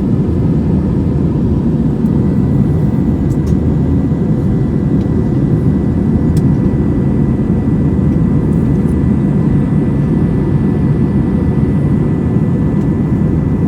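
Cabin noise inside an Airbus A320-232 airliner in flight: a steady, loud rumble of its IAE V2500 engines and airflow, with faint steady whines above it.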